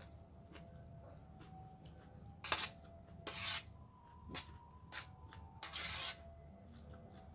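Close-miked crunching and chewing of raw vegetable salad: several loud crunches in the middle, with lighter clicks between them.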